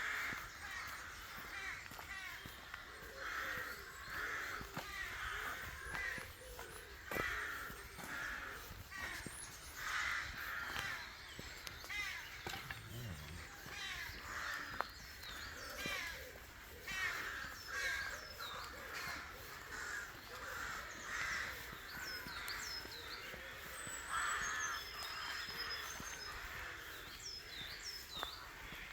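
A flock of crows cawing over and over, harsh calls coming about once a second, with the thin, high chirps of small songbirds over the top.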